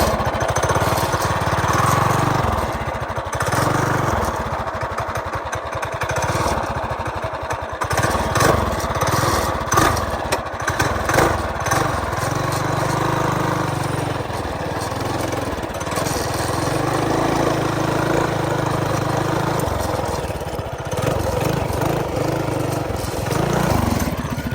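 Coleman BT200X mini bike's small single-cylinder engine running while ridden off-road, its pitch rising and falling as the throttle is worked, with a few knocks about a third of the way in.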